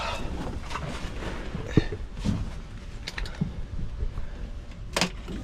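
Scattered light clicks and knocks of hand tools and car parts being handled, with the sharpest about five seconds in, over a low background rumble.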